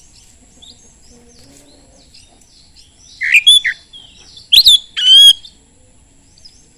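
Oriental magpie-robin (kacer) song: a loud burst of whistled notes about three seconds in, then a sharp note and a short ringing call around five seconds, over steady soft chirping.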